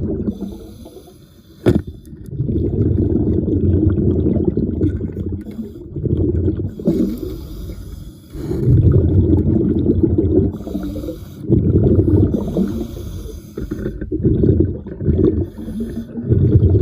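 A diver breathing underwater: exhaled air bubbling out in loud rumbling bursts every two to three seconds.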